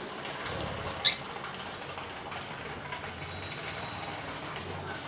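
A bird gives one short, shrill chirp that sweeps up in pitch about a second in, over a steady background hiss.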